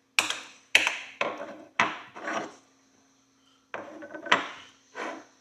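An old iron pony horseshoe being worked over with a hand tool while it is cleaned: about eight short, sharp strokes, five in quick succession, then three more after a brief pause.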